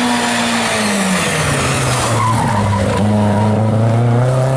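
Historic rally car on a special stage: the engine note drops about a second in as the driver lifts and slows for a corner, runs low for a couple of seconds, then rises steadily near the end as it accelerates away, with tyre noise under it.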